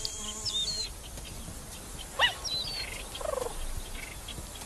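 Wild birds calling: short whistled, gliding notes and chirps, a falling call about two seconds in and a quick rattling run of notes about three seconds in. A steady insect buzz stops about a second in.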